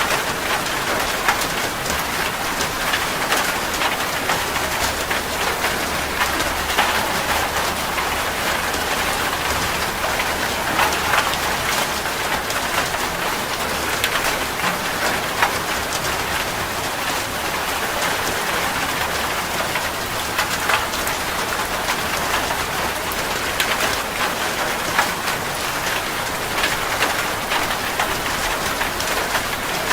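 Heavy rain drumming steadily on a metal roof, a dense hiss with many sharp individual drop hits.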